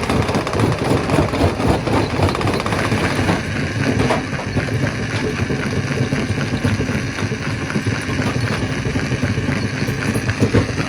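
Stone crusher running: steady, loud machine noise with a dense, fast rattle.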